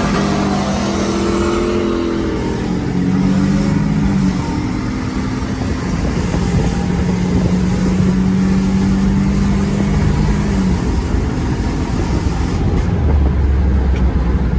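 Car engine revving, its pitch rising and falling, then held at one steady pitch for about four seconds before dropping off, as a car is readied for a drag race launch. A deeper engine rumble comes in near the end.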